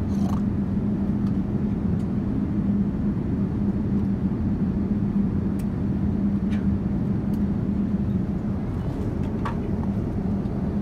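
Steady cabin noise of a Boeing 787-9 airliner in flight: a low rumble of airflow and engines with a constant hum. A few faint clicks sound over it.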